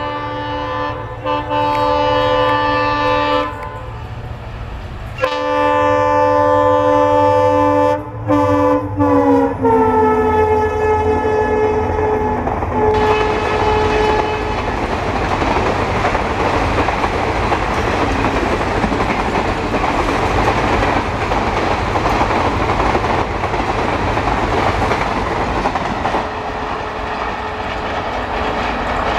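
A WDP4D diesel locomotive at about 110 km/h sounds its horn in two long blasts. The second blast falls in pitch as the locomotive passes. Then the coaches rush by in a steady roar, with wheels clattering on the rails.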